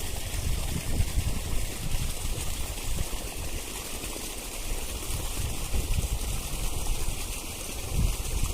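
Irrigation water flowing through a field of fodder grass: a steady rushing hiss with an uneven low rumble underneath.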